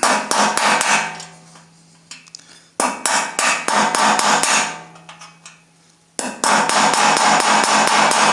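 Small hammer tapping a little chisel against a damaged screw, driving it sideways to turn it out of a steam press chamber. Three runs of rapid taps: one at the start, one about three seconds in, and one from about six seconds in.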